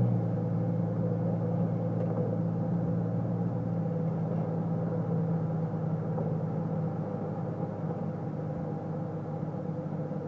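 Chevrolet TrailBlazer exhaust with a Magnaflow muffler, recorded at the tailpipe, idling with a steady low note just after the revs have settled.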